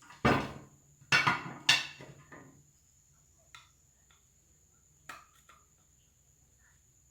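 Hard objects knocked against a work surface: four sharp knocks in the first two and a half seconds, then a few light clicks.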